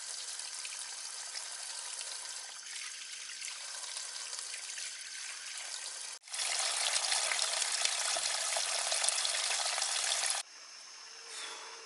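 Running water trickling steadily. About six seconds in it cuts suddenly to louder, fuller running water, which stops abruptly about four seconds later, leaving a quieter background.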